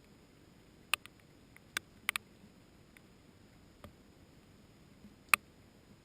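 Scattered single raindrops striking close by, each a sharp tick, about seven irregularly spaced drops with the loudest about five seconds in.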